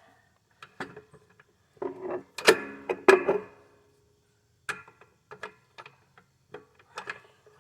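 Metal hand tools clinking and clanking against an engine mounting bolt on a steel mower deck, in a string of irregular sharp clicks with short metallic ringing; the two loudest clanks come about two and a half and three seconds in.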